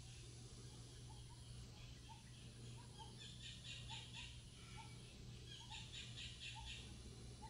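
Faint chirping of birds: short rising chirps every half second or so and a few quick trills, over a low steady hum; otherwise near silence.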